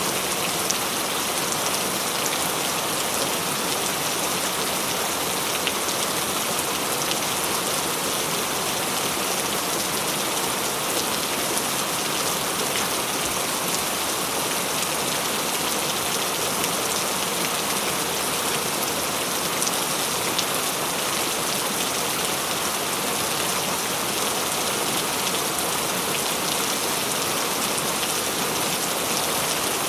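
Steady rain falling on a surface, a dense even hiss dotted with many small drop ticks.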